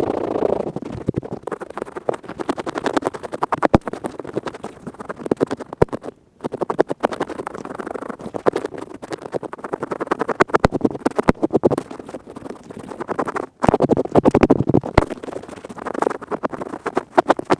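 Earpick scratching rapidly and closely, a dense run of scraping clicks, stopping briefly twice, about six and thirteen and a half seconds in.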